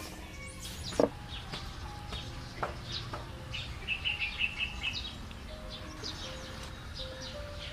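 Small birds chirping and a chicken clucking in the background, with a run of quick chirps a few seconds in. A single sharp knock about a second in.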